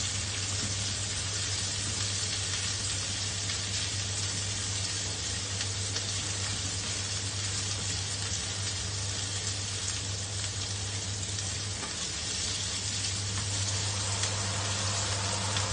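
Chopped garlic, ginger and onion sizzling as they sauté in a wok, stirred and turned with a spatula that scrapes lightly against the pan, over a steady low hum.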